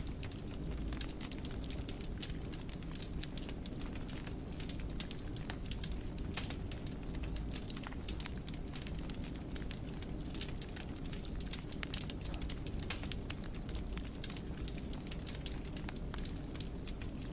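Wood fire in a fireplace crackling, with many small irregular pops and snaps over a low, steady rumble of the flames.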